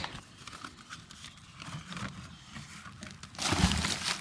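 Hands handling camp cooking gear: faint scattered clicks and rustles, then a louder crinkling rustle starting about three and a half seconds in.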